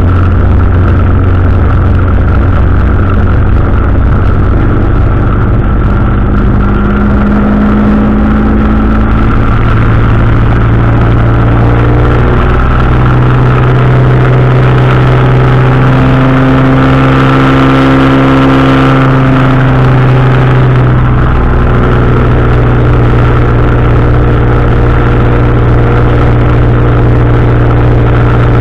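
Powered parachute engine and propeller droning steadily in flight, the pitch shifting up and back down in the middle.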